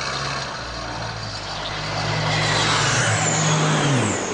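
An engine running steadily under broad rushing noise that grows louder. Near the end its pitch drops as it passes by.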